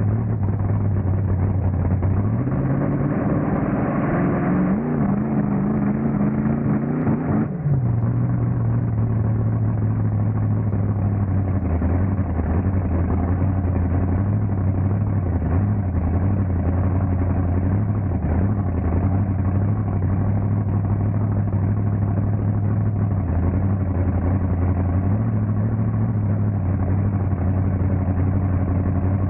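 Monster truck engine running, its revs climbing from about two seconds in and dropping suddenly at about seven and a half seconds, then holding a steady low running note with small wavers.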